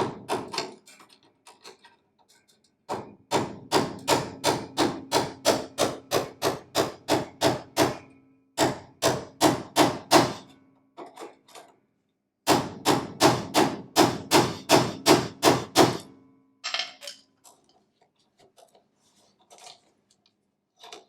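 Hammer blows on a steel bolt, driving a radius arm bolt out of a 1969 Triumph Spitfire's rear suspension. The blows come in three runs of about three strikes a second, each blow ringing metallically, with a few lighter taps near the end.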